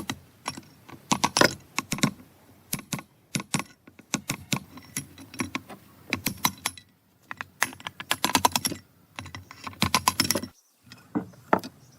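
Rapid, irregular clicking and clattering of small hard objects, some clicks coming in quick runs, as from hand tools and small parts being handled during restoration work.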